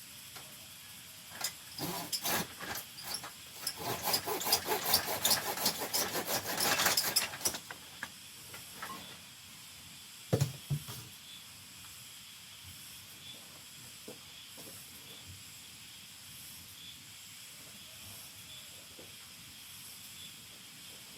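Several seconds of dense clattering and scraping, like building materials being handled, with a single knock a few seconds later; then a steady faint hiss.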